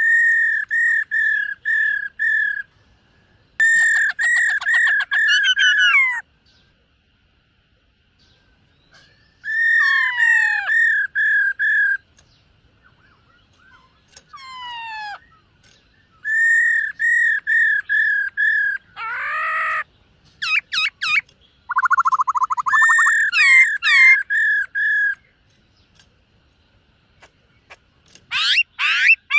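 Black-throated laughingthrush singing: phrases of five to eight loud, clear repeated whistles, with a few downward-sliding notes and a short buzzy call, separated by pauses of a second or more.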